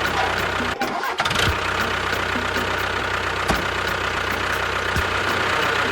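A tractor-type engine running steadily. It dips briefly just under a second in, and there are a few sharp cracks later on.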